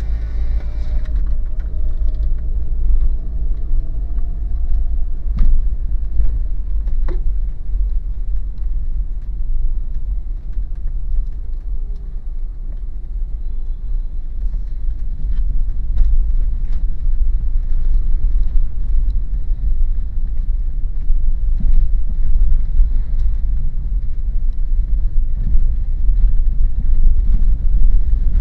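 A 2013 Daihatsu Terios automatic driving along, giving a steady low rumble of engine and road noise, with a few light clicks.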